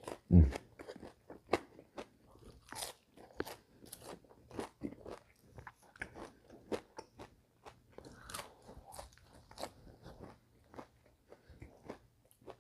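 Close-miked crunching and chewing of crispy fried fast food: a run of irregular crisp crunches and mouth clicks, with a louder bite about half a second in.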